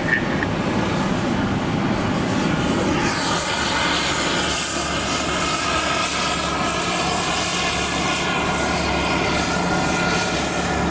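Steady jet turbine noise heard from an airliner's flight deck: a rush with several whining tones that swells and brightens about three seconds in, then holds.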